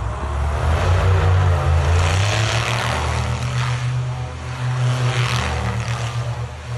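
A vehicle's engine running with a steady low hum, under a hissing rush of wind or road noise that swells and fades.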